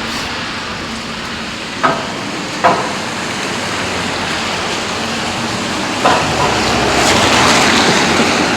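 Heavy rain falling, a steady hiss, with a few sharp taps about two, three and six seconds in; the hiss swells near the end.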